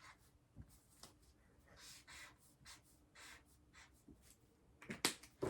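Black marker writing on paper: a run of short, soft strokes as letters are written. A couple of sharper clicks come near the end.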